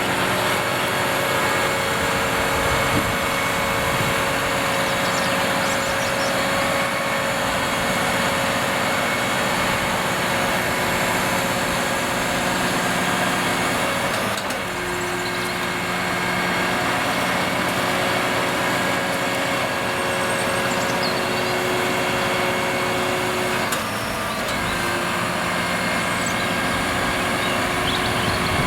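Delivery truck's engine running steadily while driving the hydraulics of its HIAB crane, with a steady hum and whine. The tone changes about halfway through and again a few seconds before the end as the load on the crane hydraulics shifts.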